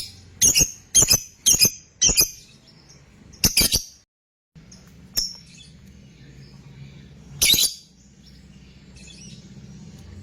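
Lovebird giving short, shrill calls, several in quick succession in the first few seconds and then a couple more spaced out. Under the calls is a faint low hum, which cuts out completely for about half a second a little after four seconds in.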